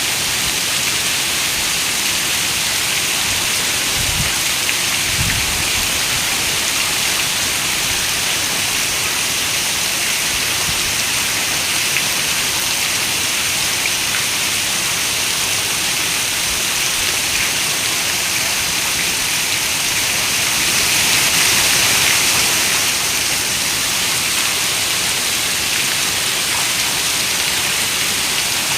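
Steady rain, a dense even hiss that swells louder for a couple of seconds about three-quarters of the way through. Two brief low thuds come about four and five seconds in.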